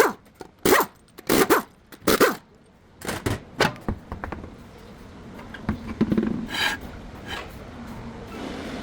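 A dog barking, with several short barks in the first few seconds and quieter sounds after.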